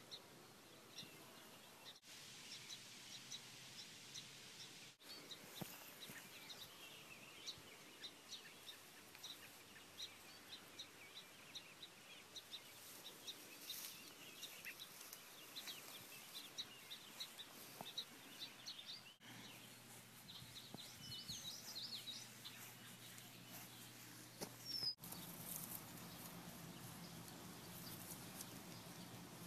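Faint outdoor birdsong: many short, high chirps from wild birds, scattered throughout. A low steady hum sits underneath in the last few seconds.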